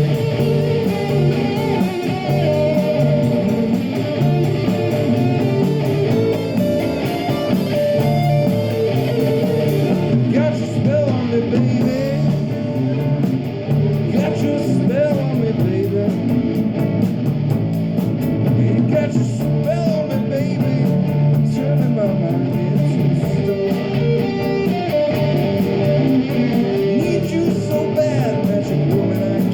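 Live rock band playing, with guitar to the fore over bass and drums.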